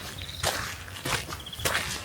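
Footsteps outdoors, about two steps a second, with a few short high chirps.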